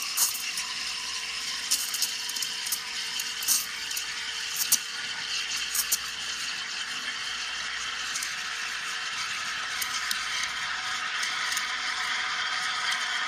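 Espresso machine running while it pulls a shot, a steady hum and hiss with sharp clicks and rattles in the first six seconds.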